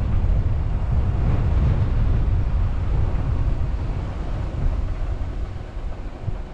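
Low, steady rumble of a car driving, with road and wind noise picked up by a car-mounted action camera; it gets quieter near the end.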